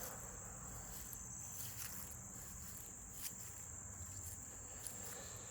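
Insects, crickets by the sound, chirring steadily in one constant high-pitched drone, with a couple of faint ticks.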